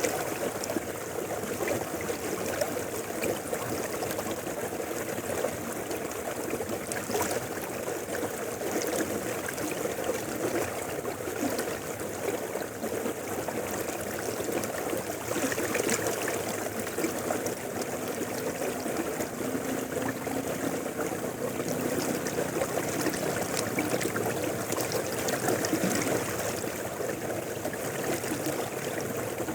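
Mountain river flowing: a steady, unbroken wash of running water.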